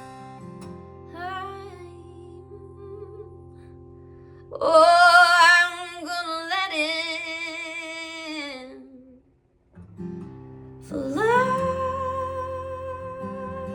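Female voice singing long notes with vibrato over acoustic guitar. The music drops out briefly about nine seconds in, then comes back with one long held note over the guitar.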